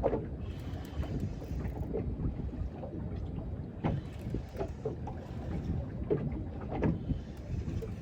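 Wind buffeting the microphone over water lapping against a small boat's hull, with a few light knocks and slaps.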